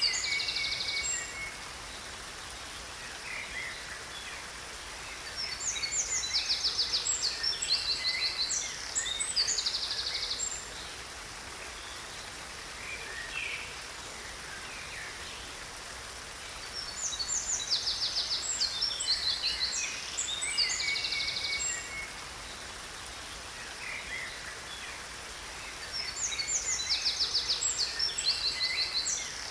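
A songbird singing long, high-pitched phrases with rapid trills, three bouts of several seconds each, about ten seconds apart, over the steady rush of a waterfall.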